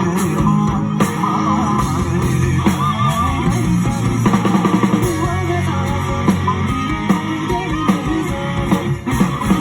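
Live band music: guitar played over a drum kit, running continuously.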